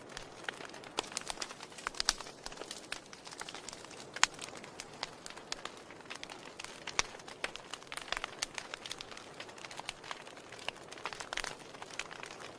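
Wood fire in a fireplace crackling: irregular sharp pops and snaps over a soft steady hiss, with a couple of louder pops around two and four seconds in.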